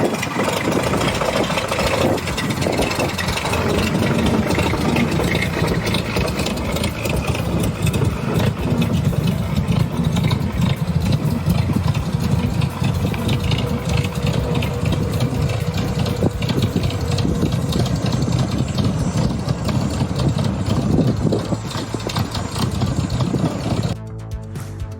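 Engine of a 1928 Mack AB truck running, a dense rapid pulsing as the truck drives away. Near the end the engine gives way to music.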